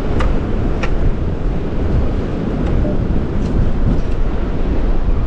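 Strong wind buffeting the microphone, a loud, steady, low rumble, with a few faint clicks in the first second and again around three and a half seconds in.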